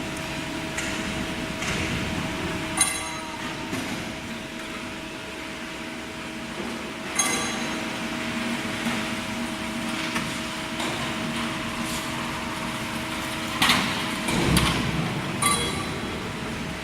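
Metal-cutting band saw machine running with a steady hum, broken by four sharp metallic clinks.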